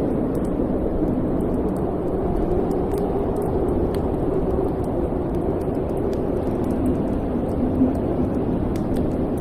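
Wood fire burning in a fireplace: a steady low rumbling hiss with scattered small crackles and pops.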